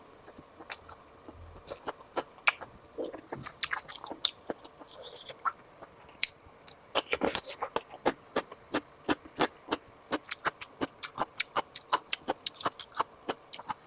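Close-miked mouth sounds of someone chewing sausage: sharp little clicks, scattered at first, then a quick run of about four a second from about halfway in.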